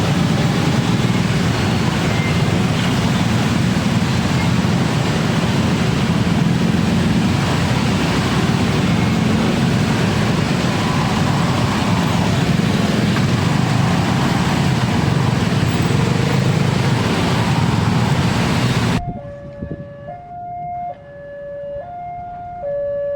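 A train passing over a railway level crossing, a loud steady rumble and rush of wheels on rail. About 19 seconds in it cuts off suddenly and the level crossing's electronic warning signal takes over, a two-tone alarm alternating between a higher and a lower pitch.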